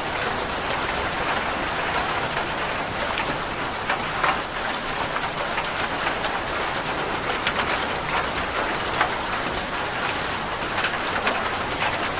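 Steady heavy rain falling on a roof, with many individual drops striking sharply through the constant hiss.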